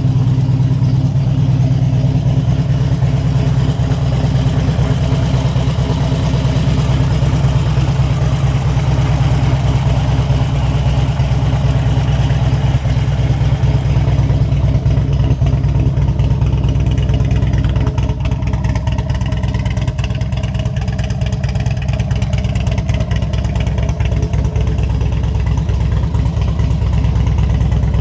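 A 2003 Harley-Davidson Electra Glide Classic's Twin Cam 88 V-twin engine running steadily at idle.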